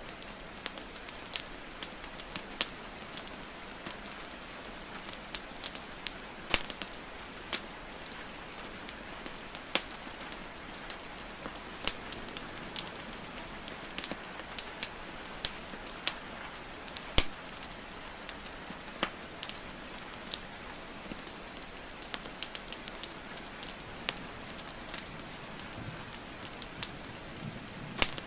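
Wood fire crackling and popping, with sharp pops at irregular intervals, over a steady hiss of rainfall.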